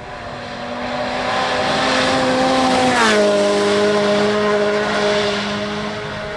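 A WRC Rally1 car's turbocharged engine at full throttle, the pitch climbing slightly, then dropping sharply with a brief crack about halfway through and holding at the lower note. The engine is loudest around the middle and then eases a little.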